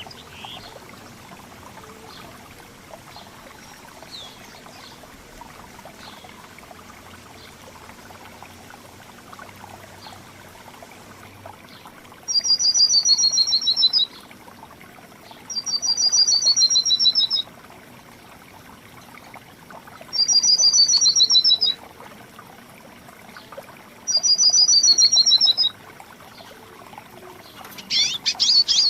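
A songbird repeating a short, fast trill that slides down in pitch, four times, each about a second and a half long, over a steady background hiss with a few faint chirps; a burst of louder bird calls begins right at the end.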